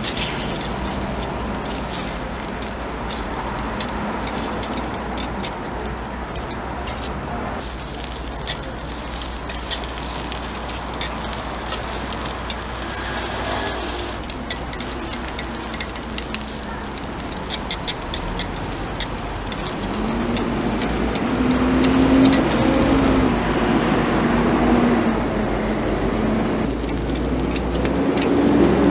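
Takoyaki sizzling and crackling in a cast-iron takoyaki pan, over a steady hum of road traffic. In the last third a low drone comes in and the sound grows louder.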